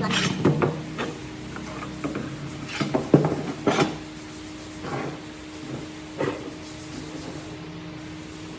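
Scattered knocks and scrapes of wood being handled and worked, over a steady faint hum.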